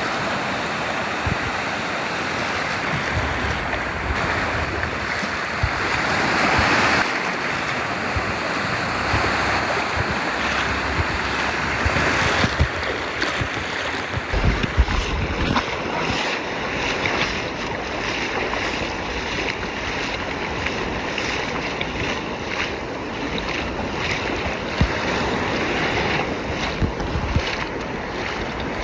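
Storm surf breaking on a beach: a continuous roar of waves with louder surges as bigger waves come in, and wind buffeting the microphone.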